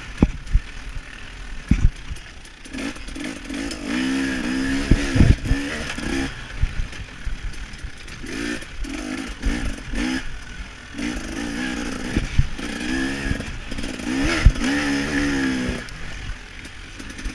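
KTM 300 XC-W two-stroke dirt bike engine revving up and falling off again about five times under racing load, with sharp thuds and clatter from the bike hitting bumps.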